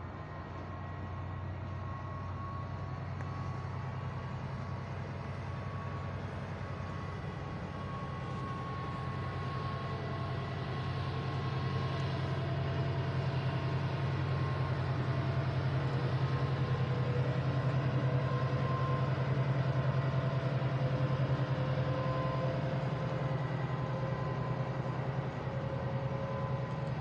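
Container freight train pulling slowly out behind an orange diesel shunting-type locomotive: a steady low engine hum with the rumble of the wagons on the rails, growing louder as it passes. Faint steady whining tones sit above it, one slowly rising in pitch.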